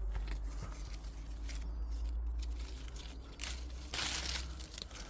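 Close rustling and crinkling, with a louder burst about four seconds in, over a steady low rumble.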